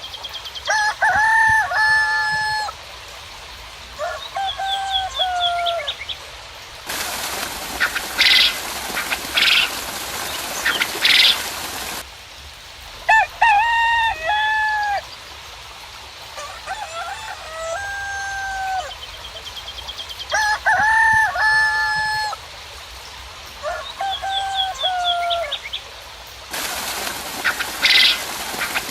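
Roosters crowing over and over, with small birds chirping. A steady rain hiss comes in twice, for about five seconds around a third of the way in and again near the end, starting and stopping abruptly.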